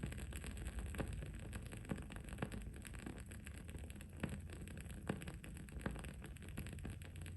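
Wood-wick candle crackling: irregular small pops and snaps, a few a second, over a steady low background rumble and faint high hiss.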